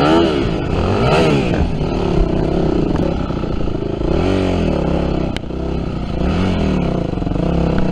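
Yamaha WR250F dirt bike's single-cylinder four-stroke engine being revved, its pitch rising and falling several times as the throttle is opened and closed.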